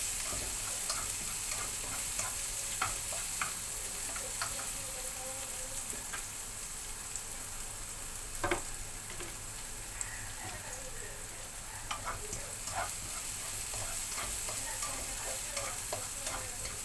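Garlic and onion frying in hot oil in a pan: a steady sizzle with scattered clicks and scrapes of a utensil stirring them, and one sharper knock about eight and a half seconds in.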